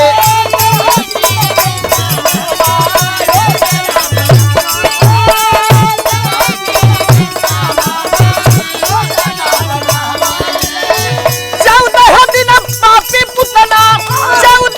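Instrumental accompaniment of a Bhojpuri birha folk song between sung lines. A held, wavering melody plays over a steady beat of low drum strokes and rapid shaken-rattle or cymbal clicks.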